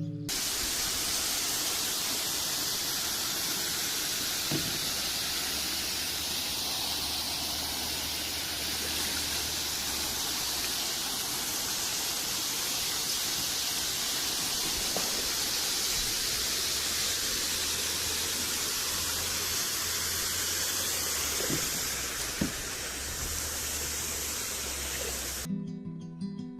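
Steady rushing noise, strongest in the high range, with a few faint ticks; it cuts off suddenly about a second before the end.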